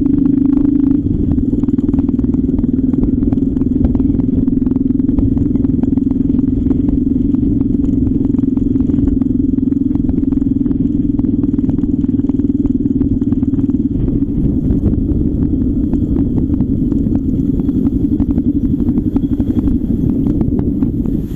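CCM trail motorcycle's engine running steadily under way along a lane.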